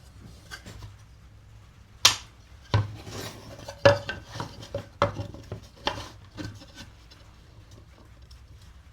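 Hand chisel work in wood, cutting a small rebate: several sharp, irregular knocks with scraping in between, then quieter from about seven seconds in.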